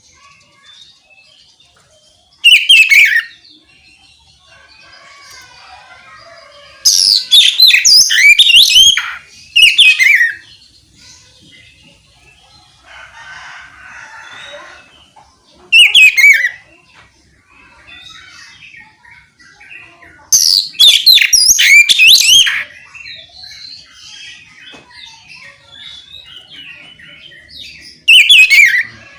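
Oriental magpie-robin (kacer) singing loud, separate phrases of rapid whistled glides and trills, about six bursts with pauses between them, with faint twittering in the gaps.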